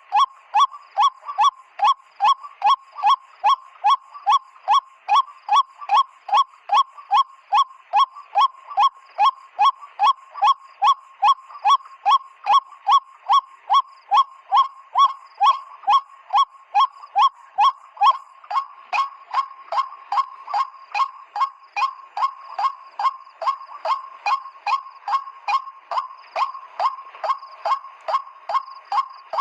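White-breasted waterhen 'kwak' call repeated steadily, about two notes a second, each note a short dipping hoot.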